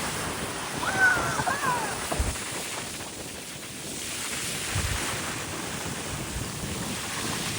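Wind buffeting the microphone over the wash of waves on the shore, with one short high call that rises and falls about a second in.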